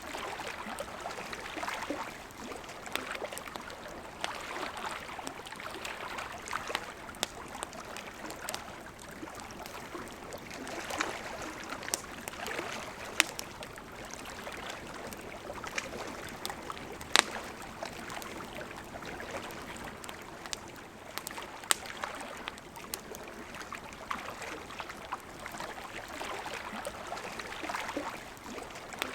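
Campfire crackling and popping with irregular sharp snaps, the loudest about halfway through, over the steady rush of a flowing river.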